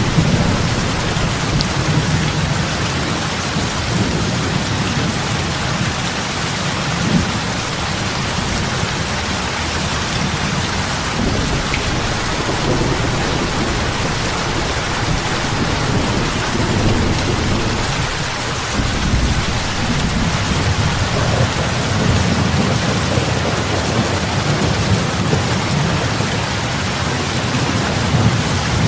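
Heavy rain falling on lake water: a dense, steady hiss of drops with a low rumble that swells and fades underneath.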